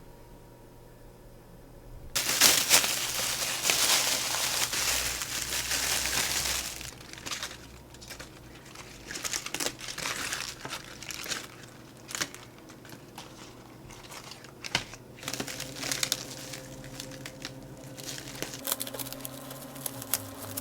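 Packaging crinkling and rustling as it is handled: a dense stretch about two seconds in, then scattered short crinkles.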